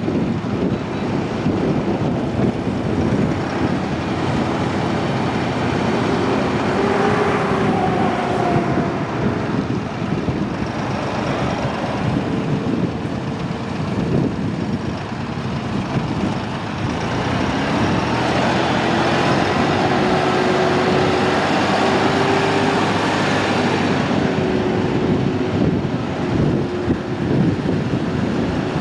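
New Holland Workmaster 70 tractor's three-cylinder turbo diesel running steadily, its pitch climbing about a quarter of the way in and again a little past halfway.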